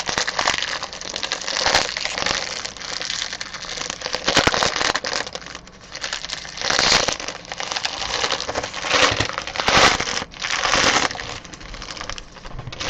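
Trading-card pack wrapper being torn open and crinkled, with the cards inside being handled, in irregular crinkly bursts and small clicks.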